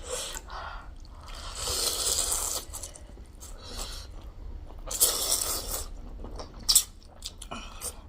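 Close-up eating of noodle soup: two long slurps about a second each, with chewing and small mouth clicks between them.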